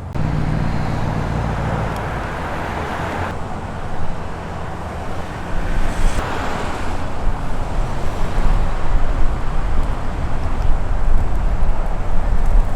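A car engine runs as the car rolls past, its low note strongest for the first couple of seconds. Wind buffets the microphone with a gusty rumble through the second half.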